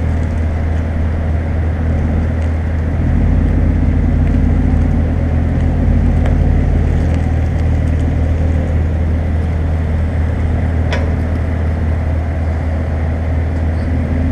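2014 Toyota Tacoma's 4.0-litre V6 running steadily through a Flowmaster 50 Series aftermarket muffler: a low, even exhaust note.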